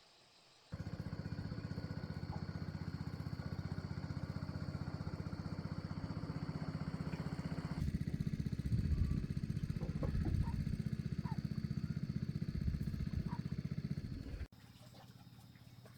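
A small engine running steadily, starting abruptly about a second in and cutting off abruptly near the end; it grows heavier and lower about halfway through.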